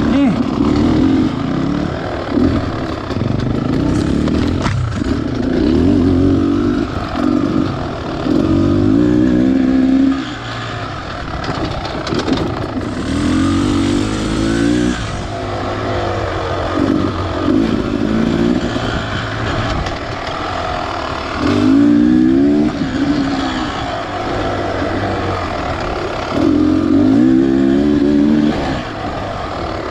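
Beta Xtrainer 300 two-stroke dirt bike engine under way on a trail, revving up in repeated climbs of pitch and easing off between them as the throttle is worked, with a brief hiss about halfway through.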